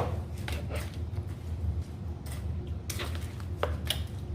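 Spoon clinking and scraping in a cup of halo-halo shaved ice, a scatter of sharp clicks with the sharpest at the very start, over a steady low hum.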